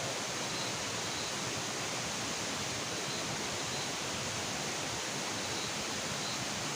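Steady, even hiss with no break, and faint short high chirps every second or so.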